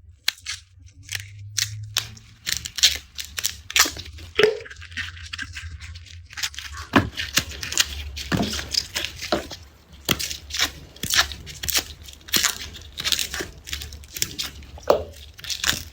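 Garlic being peeled by hand: the dry papery skins crackle and tear in quick, irregular snaps, several a second, over a faint steady low hum.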